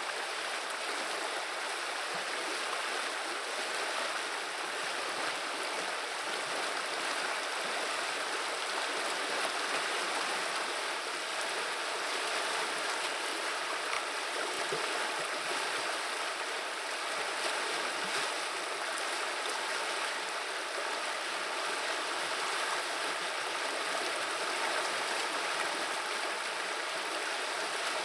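River water running and babbling over stones, a steady rushing murmur.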